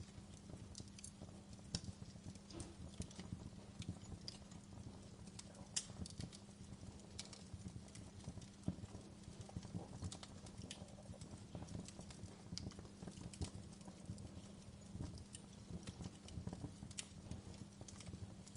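Wood fire crackling in a fireplace: a steady low rumble of burning with frequent small, irregular pops and snaps, a handful of them sharper and louder.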